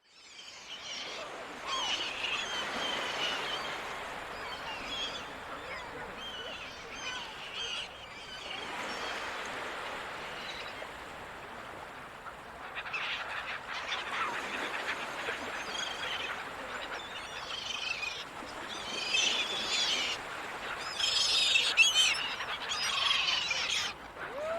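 A flock of seagulls calling, many short overlapping squawks and cries over a steady wash of ocean surf, growing busier and louder near the end.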